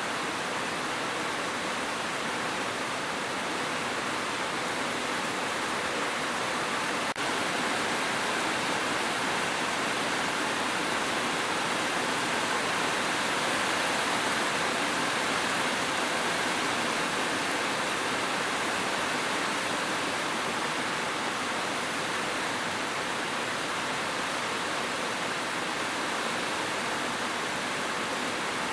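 Continuous rushing water: a steady, even hiss with no separate drops or tones, and a brief dip in level about seven seconds in.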